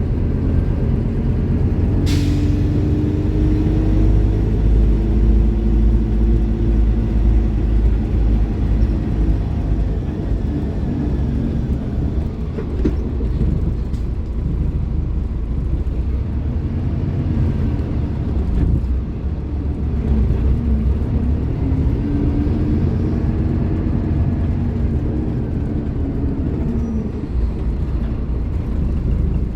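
Scania K310IB bus's rear-mounted diesel engine running under way, its pitch rising and falling with the revs several times. A short, sharp hiss of air sounds about two seconds in.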